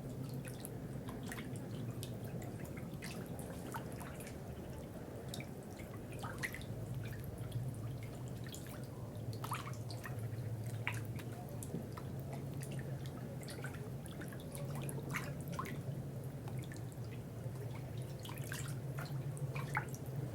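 Water dripping: many small, irregular drops plinking, over a steady low hum.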